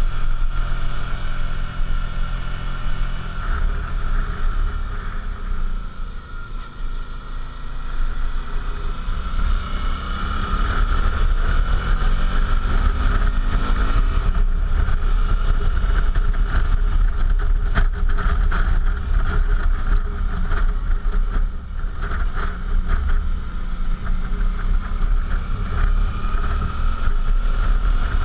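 Suzuki V-Strom motorcycle riding, its engine note easing off about six seconds in and then rising again, with heavy wind rumble on the camera microphone.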